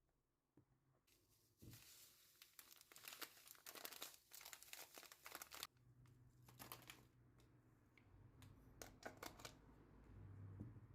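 Packaging crinkling and rustling as it is handled, with a tearing sound, for several seconds, then a few light clicks and taps.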